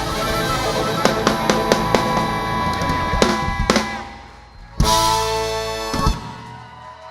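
Live soul-rock band playing the closing bars of a song: drums hitting hard on snare and bass drum, then a loud full-band final chord about five seconds in that rings for about a second and is cut off with one last hit.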